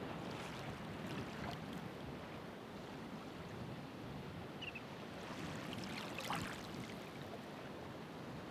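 Calm ocean waves washing onto the shore: a steady surf hiss, with the fizz of a wave's wash rising near the start and again, loudest, about six seconds in.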